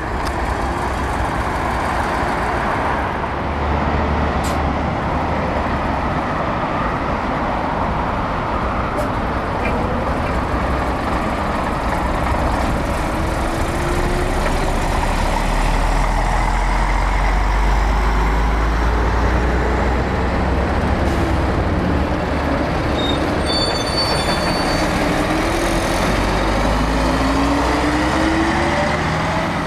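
Heavy diesel trucks driving past, with a continuous low rumble; several times the engine pitch rises as a truck pulls away and accelerates through the gears.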